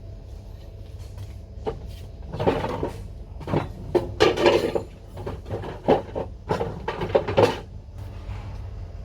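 Restaurant kitchen clatter: a run of knocks and bangs, several in quick succession in the middle, over a steady low hum.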